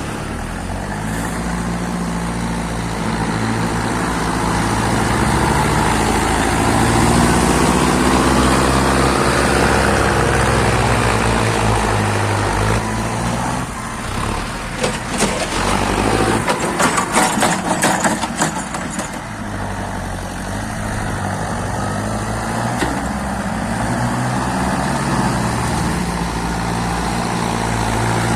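Mahindra tractor's diesel engine working under load in sand, its engine speed rising and falling. A burst of rattling and knocking comes in the middle.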